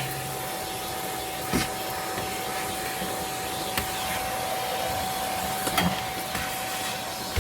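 Vacuum cleaner running steadily, an even hiss with a constant whine, with a brief knock about a second and a half in and another near six seconds.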